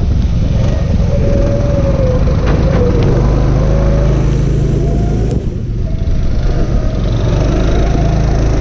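Go-kart engine running hard on track, its pitch rising and falling with the throttle. About two-thirds in it drops briefly, then climbs steadily again as the kart accelerates.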